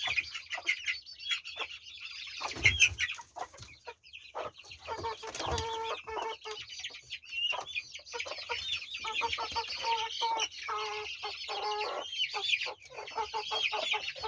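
Chickens calling: a steady stream of short, high peeping calls, with repeated lower clucks joining in over the middle and later part. Two brief knocks sound about three and five and a half seconds in.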